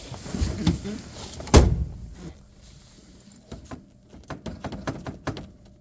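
The door of a 1956 Ford Thunderbird shuts with one loud thud about a second and a half in, after some rustling. A few light clicks follow.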